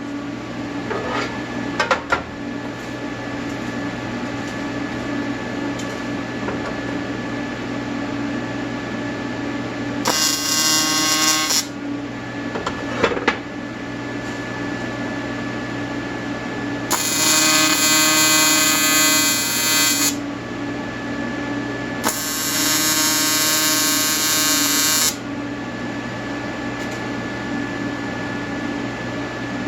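TIG welder buzzing steadily while welding, with louder, harsher stretches about a third of the way in and twice more after the middle, and a few sharp clicks.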